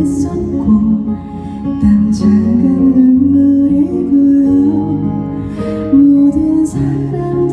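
Live performance of a slow, gentle ballad led by acoustic guitar, with sustained held notes.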